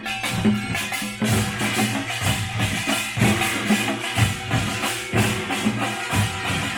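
Pungmul folk percussion band playing: drums beating a driving rhythm of repeated low strokes under a constant bright clanging of small metal gongs.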